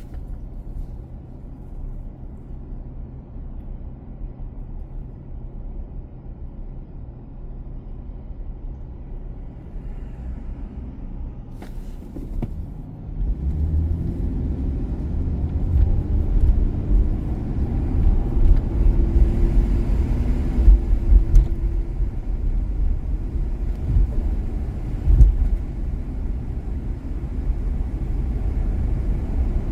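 A car driving on city streets: a steady low rumble of engine and tyres that grows clearly louder about halfway through.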